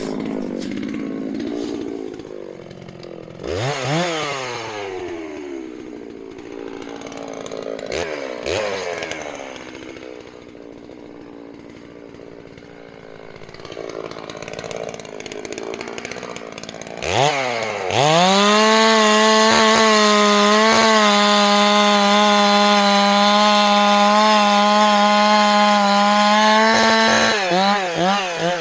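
Chainsaw idling with two quick throttle blips early on, then revved up about two-thirds of the way in and held at a steady full throttle for about ten seconds before dropping back with a few short blips near the end.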